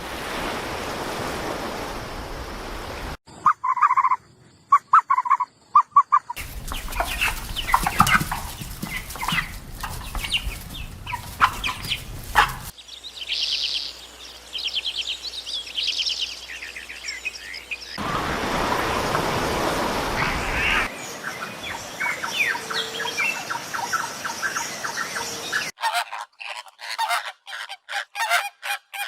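A series of short wild-animal recordings cut one after another, each a few seconds long: repeated calls and cries, a fast high chattering call in the middle, and hiss behind them, with bird-like calls prominent.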